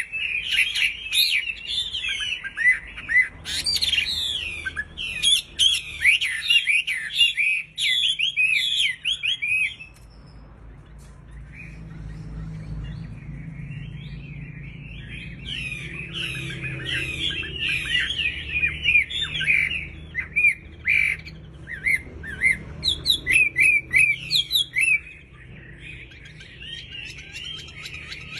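A wambi songbird in breeding condition singing, with rapid runs of high chirps and short squawky notes. The bird pauses for several seconds about ten seconds in, then starts again.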